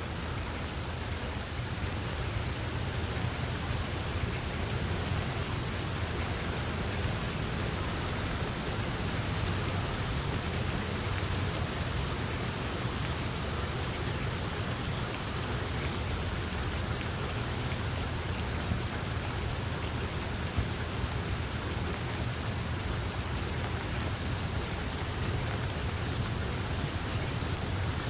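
Steady rain falling, an even hiss of many drops with a low rumble underneath. One sharp tick about twenty seconds in.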